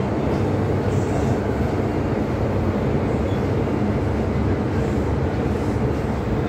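MTR M-Train running at speed between stations: a steady rumble of wheels on rail and running gear, heard from aboard the train.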